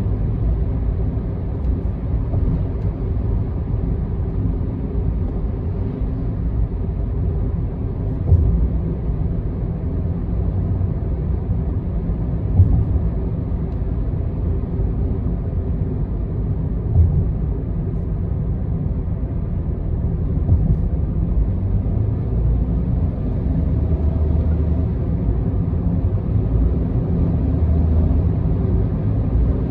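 Steady low rumble of a car driving on an expressway, road and engine noise heard from inside the cabin, with a few brief thumps.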